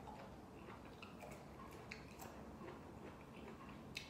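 Faint chewing of firm jackfruit flesh, with scattered small mouth clicks and one sharper click near the end.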